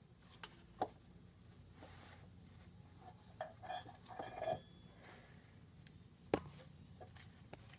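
Faint handling sounds: a few sharp knocks and a short run of small ringing clinks, like small metal objects being picked up and set down, over a low steady hum.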